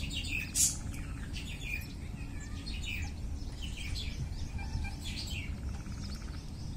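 Several small birds chirping and twittering, with one sharp high chirp about half a second in and a couple of short buzzy trills. A steady low rumble runs underneath.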